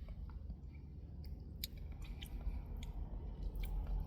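A person chewing food close to the microphone, with scattered small mouth clicks, over a steady low hum.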